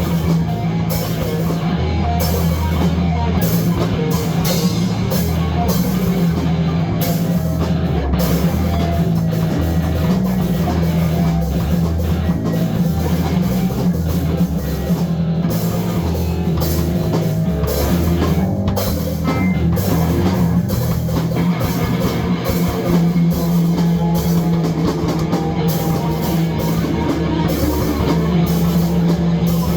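Loud rock music with distorted guitar, bass and drum kit playing continuously in a heavy, metal-like style.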